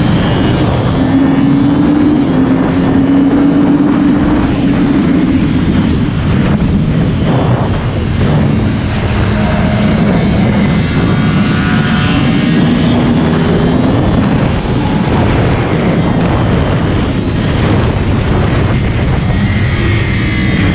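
Yamaha R1 sport bike's inline-four engine running hard on track, its note rising and falling as the rider accelerates and backs off, with wind noise over the microphone.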